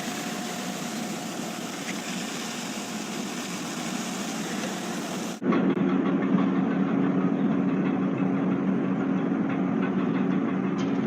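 A steady rushing noise, then from about five seconds in a steady engine hum under a noisy rush.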